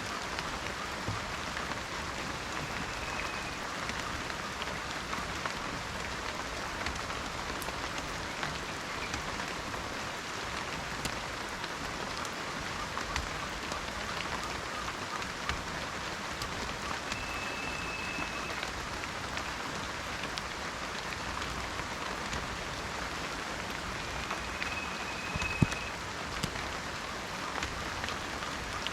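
Steady rain falling in a forest, a continuous hiss with many individual drops ticking. A few brief, thin high tones sound over it, and a single louder knock comes near the end.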